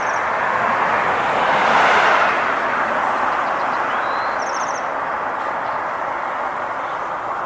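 Steady road-traffic noise that swells as a vehicle passes about two seconds in. A small bird's short, fast, high trill sounds twice over it.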